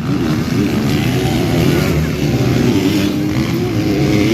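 Motocross bike engines racing on a dirt track, revving and easing off as the riders work through a banked corner, with the pitch wavering up and down.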